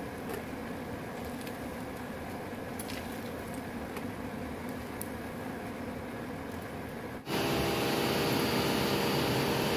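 Beef frying in hot oil in a pan, a steady sizzle with small scattered pops. About seven seconds in it cuts abruptly to a louder steady rushing noise with a low hum.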